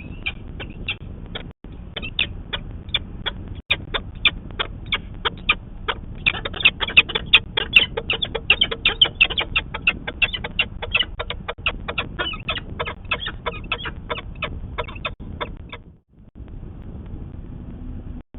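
Peregrine falcon giving its harsh, repeated kak-kak-kak alarm call, typical of a falcon defending its nest against a passing raptor. The calls come about two or three a second at first, then quicken and grow louder through the middle before stopping about fifteen seconds in, over a steady low rumble.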